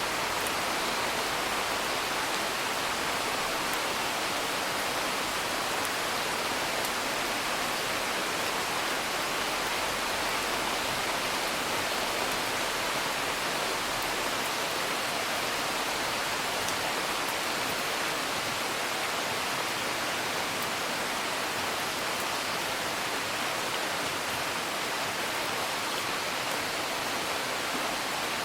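Steady, even hiss of continuous rain, with a few faint crackles from a fire.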